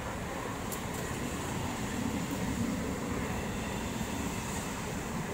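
Trains passing on nearby tracks: a steady rumble and rattle of wheels on rail, growing a little louder about two seconds in.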